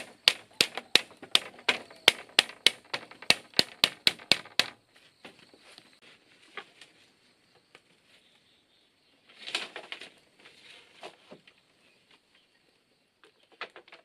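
Hammer blows in a fast, even run, about three or four a second, stopping about five seconds in. Scattered light knocks follow, with a short clatter around ten seconds in.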